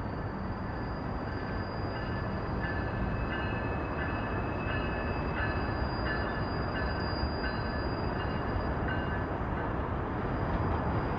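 CSX freight train rolling past at low speed, a steady rumble of locomotive and freight cars on the track. From about a second and a half in, short high tones repeat roughly every three-quarters of a second and stop near the end.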